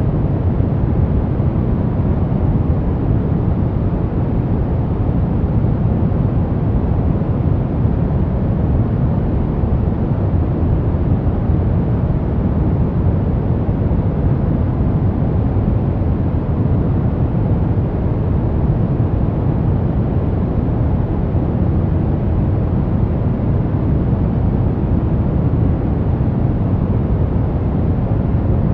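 Steady, unchanging synthetic noise of a sleep and relaxation noise track. It is deep, with most of its weight low down, and it does not change at all.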